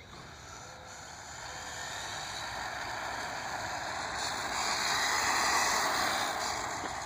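Electric 1/10-scale RC car passing at speed, its motor and tyres making a hissing whoosh that grows louder as it approaches, peaks about five and a half seconds in, then fades as it goes away.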